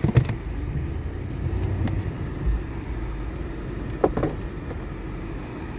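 Snowplow pickup truck running, heard from inside the cab as a steady low rumble, with a sharp knock just after the start and another about four seconds in.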